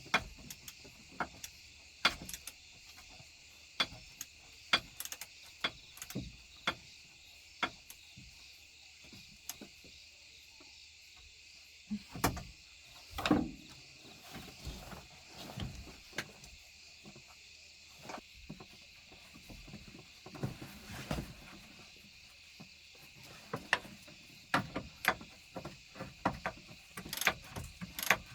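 Metal hand tools clicking, clinking and knocking against excavator parts at irregular intervals, with a denser run of clicks near the end.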